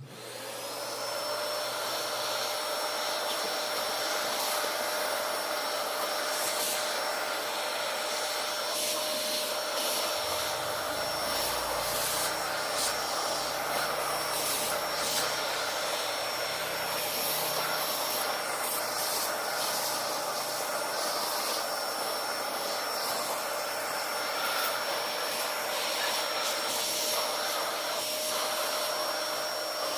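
Vacuum cleaner switched on, its motor whine rising briefly as it spins up, then running steadily. A lower rumble joins from about ten seconds in and drops away several seconds later.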